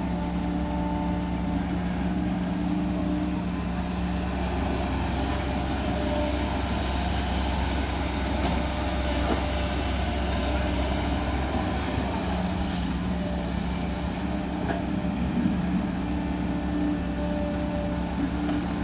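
Kobelco SK140 excavator's diesel engine running with a steady note, which turns rougher and noisier for several seconds in the middle before settling again.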